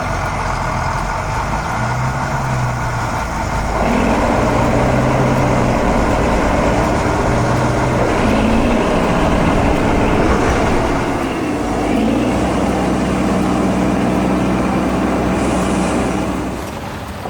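A heavy vehicle's engine running. It gets louder about four seconds in, its pitch shifts a few times, and it fades out near the end.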